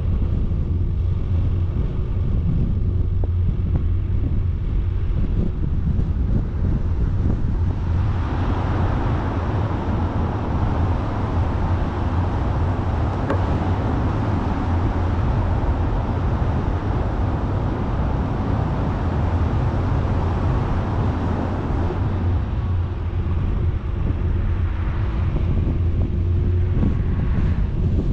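A vehicle driving, with a steady low rumble and wind on the microphone; a louder rushing noise comes in about eight seconds in and eases off some fourteen seconds later.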